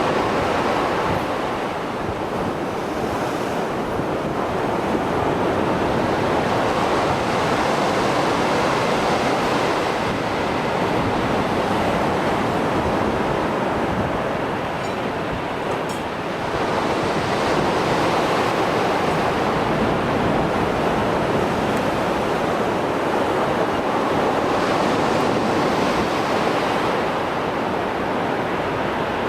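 Mediterranean Sea waves after a storm, breaking and washing ashore in a continuous rush that swells and eases every several seconds.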